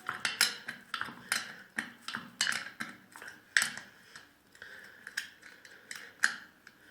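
Irregular metallic clicks and taps, roughly two a second, from hand tools working the nut off a small mower engine's flywheel fan as it unscrews.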